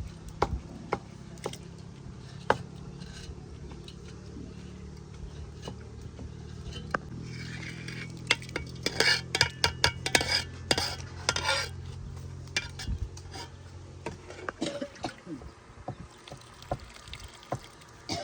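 Cooking utensils clinking and knocking against a pot, as in stirring, with a dense run of clatter about eight to twelve seconds in, over a steady low hum.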